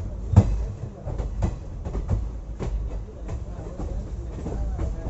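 Indian Railways passenger coach running along the track: a steady low rumble with sharp clicks of wheels over rail joints about every half second, loudest in the first second.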